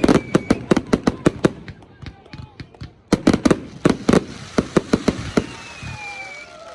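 Fireworks going off in rapid volleys of sharp bangs and pops, a dense run, a short lull about two seconds in, then another run. A faint falling whistle sounds near the end.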